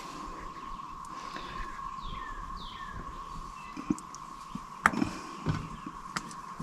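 Two short falling bird chirps over a steady high hum, with a few sharp clicks from hands working on the engine's plug wires, the loudest about five seconds in.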